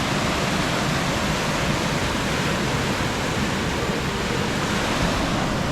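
Rainforest waterfall rushing steadily close by, a continuous even hiss of falling water.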